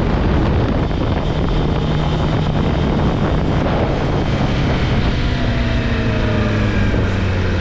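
Kawasaki ZX-10R's inline-four engine running under way, heavy wind noise on the microphone; from about five seconds in the engine note falls steadily as the bike slows.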